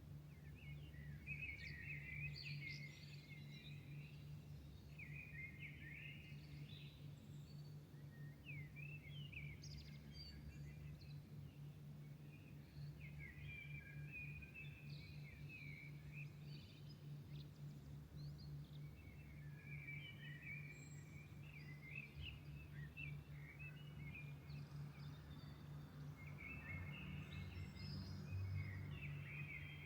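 A songbird singing short, warbled phrases, one every few seconds, over a steady low hum.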